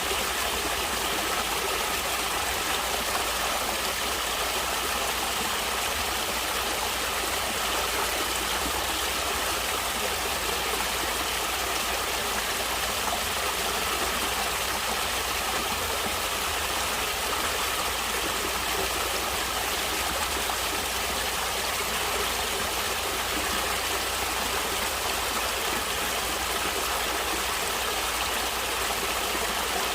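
Stream of water flowing and splashing steadily over rocks, an even rushing sound with no change.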